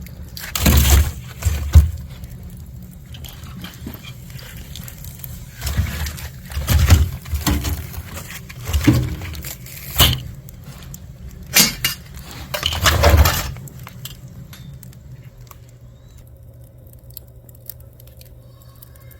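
A series of irregular knocks and clinks, some with a heavy thud, coming every second or two and dying away near the end.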